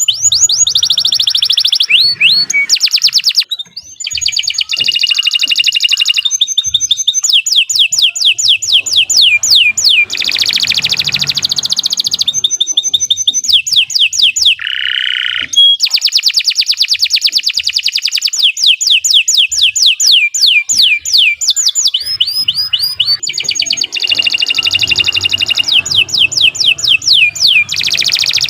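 Domestic canary singing a long, unbroken song of fast trills: rows of quick high whistled notes repeated many times a second, changing from one trill to the next, with a brief lower note about halfway through.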